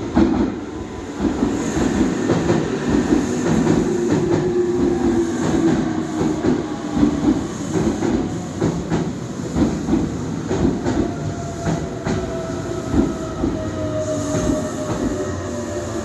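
Electric passenger train running on the rails, wheels clicking repeatedly over rail joints, with a steady whine that slowly falls in pitch in the second half.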